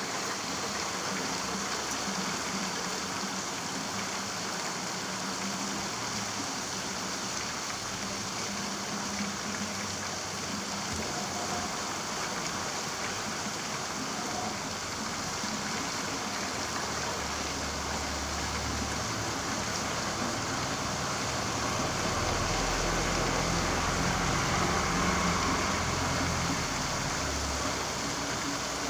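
Steady rain falling, a dense even hiss. A low rumble joins it in the second half.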